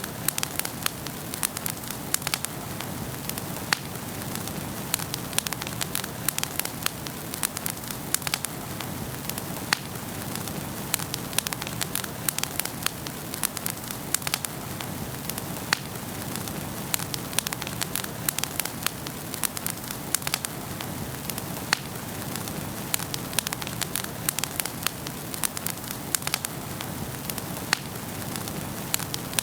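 Wood fire burning in a fireplace, crackling and popping: a steady hiss with many sharp snaps, several a second.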